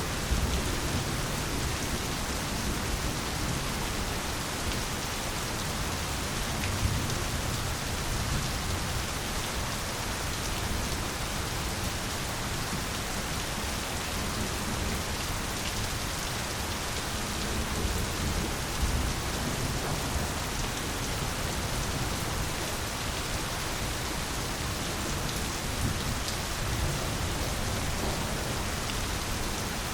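Steady, dense rainfall, with low rumbles of distant thunder swelling now and then.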